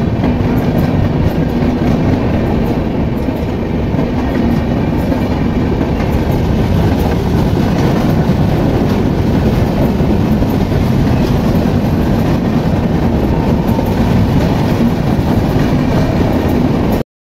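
Passenger train coaches passing close by at speed: a steady loud rumble with the clickety-clack of wheels over the rails. It cuts off suddenly near the end.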